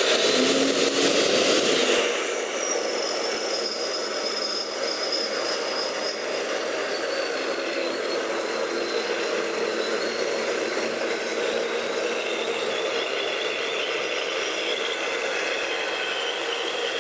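Supercharged Ford 408 Windsor stroker V8 running: louder with a wide hiss for the first two seconds, then settling to a steady run with a thin high whine over it.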